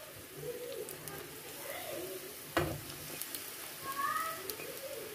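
Eggplant sticks sizzling in hot oil in a frying pan as more pieces are tipped in from a bowl, with one sharp clack about two and a half seconds in. A bird calls in the background.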